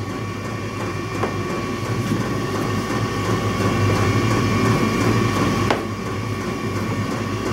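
Steady mechanical hum and rumble of a running machine, with a faint steady high tone and two light clicks, about a second in and near six seconds in.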